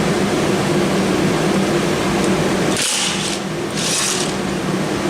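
A steady low mechanical hum with two short bursts of hiss, about three and four seconds in.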